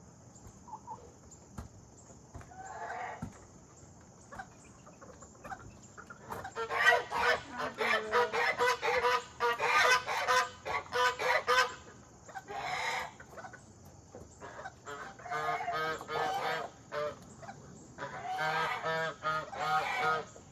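Backyard poultry calling: two bouts of rapid, repeated honking calls, the first about six to twelve seconds in and the second from about fifteen seconds on.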